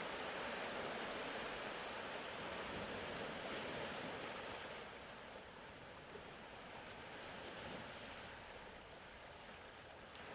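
Faint ocean surf ambience: waves washing with a slow rise and fall, with no distinct individual breaks.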